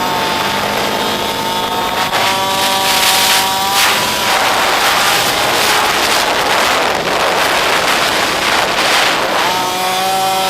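Small single-cylinder pit bike engine running hard. Its pitch climbs about two seconds in, drops near four seconds, and climbs again near the end as the throttle is worked.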